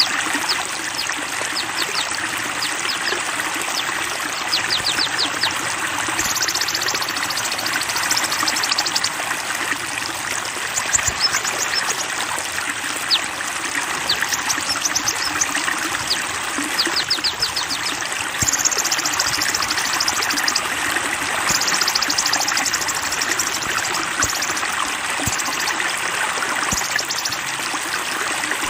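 Running water flowing and trickling steadily, with small songbirds chirping over it in quick series of high-pitched notes and trills.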